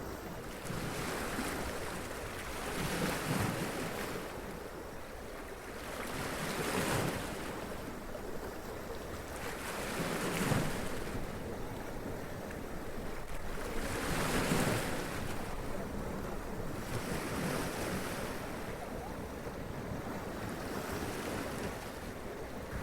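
Sea waves running up onto rocks and splashing, each wave surging and falling back about every three to four seconds.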